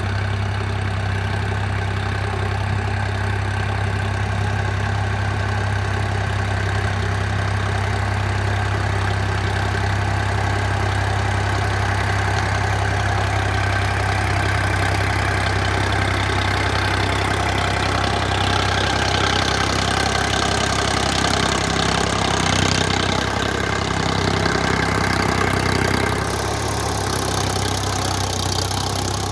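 Preet 955 tractor's diesel engine running steadily while driving a 7-foot rotavator, growing a little louder for a few seconds late on before settling back.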